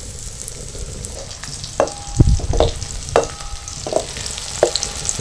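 Cornflour-coated sweet corn kernels sizzling in warm oil in a metal kadai. A metal slotted spoon stirs them, knocking against the pan about six times from two seconds in, and each knock rings briefly.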